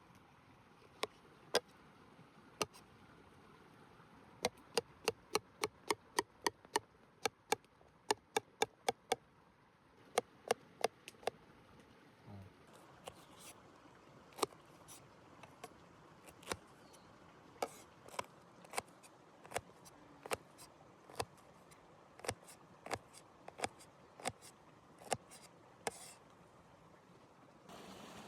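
Chopping on wood: a long series of sharp knocks, in quick runs of about three a second, then softer and more spaced strokes in the second half. A steady rushing noise sets in just before the end.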